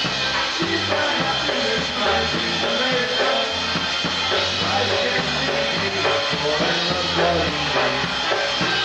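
Live polka band playing an instrumental passage: a drum kit keeps a steady beat under a bass line and melody instruments.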